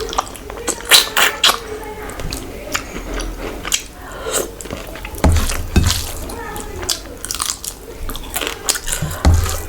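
Close-up eating sounds: a person chewing and biting food, with many short crunches and mouth clicks, and a couple of low bumps about halfway and near the end.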